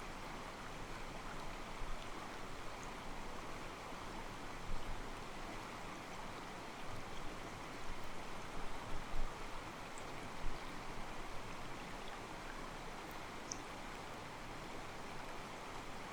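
Mountain stream with water sloshing and gurgling against rocks, a steady soft rush. A few brief low bumps come near the middle.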